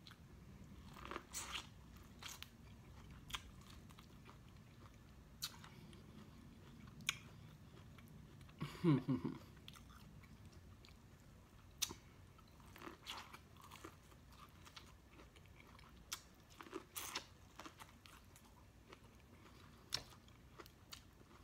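A person chewing and biting corn on the cob, with scattered short crunches and clicks, and a brief low hum of the voice about nine seconds in.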